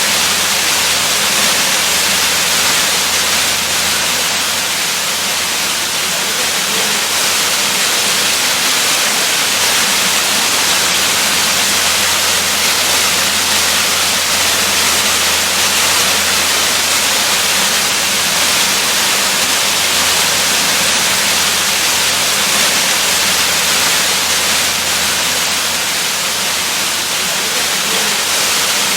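Waterfall: a steady, unchanging rush of falling water, heaviest in the hiss of the upper range.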